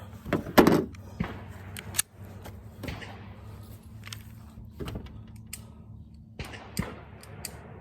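Scattered clicks, knocks and rattles of gear being handled, with a brief voice sound about half a second in.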